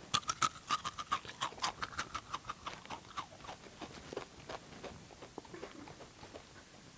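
Loud open-mouthed crunching of Takis rolled tortilla chips, about five crunches a second, loudest in the first three seconds and then tapering off.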